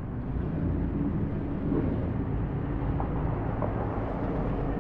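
A car engine running at low speed, a steady low rumble.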